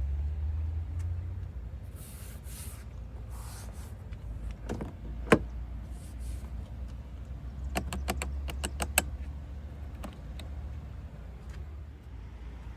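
Handling noises around a car: two short swishes, then a sharp knock about five seconds in and a quick run of about seven clicks around eight to nine seconds, over a low steady rumble.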